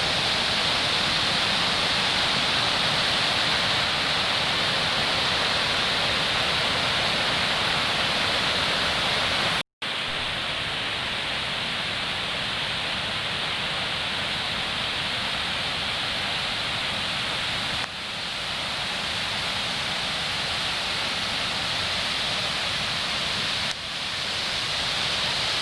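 Waterfall rushing: a steady, dense hiss of falling water. About ten seconds in it cuts out for a split second and comes back slightly duller.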